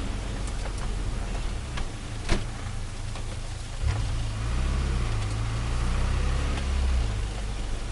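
Turbocharged Nissan Micra engine running at idle with a steady low drone. A sharp click comes a little over two seconds in, and the low engine note grows fuller and louder from about four to seven seconds.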